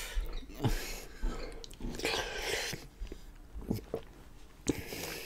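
Close-miked chewing of a large mouthful of lasagna: wet, irregular mouth and smacking sounds with a few short clicks.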